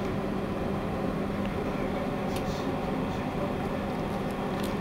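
Induction stove's grill and cooling fan running with a steady hum and a low held tone, with a few faint clicks.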